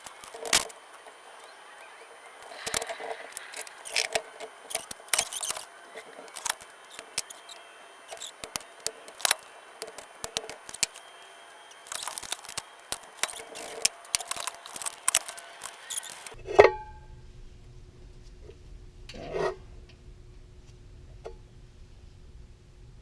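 Small metal parts and hand tools clinking, tapping and scraping irregularly as a pressure washer pump and its hardware are handled. After about sixteen seconds this gives way to a low steady hum with one sharp clack.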